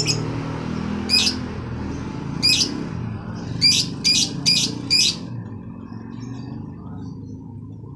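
A bird giving short, shrill squawks: single calls about a second apart, then a quick run of four near the middle, followed by fainter chirps. A steady low rumble runs underneath.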